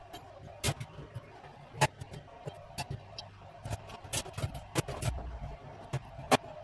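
Oven racks and trays being put back into the oven: a string of irregular clicks, knocks and clatters, the two sharpest about two seconds in and near the end.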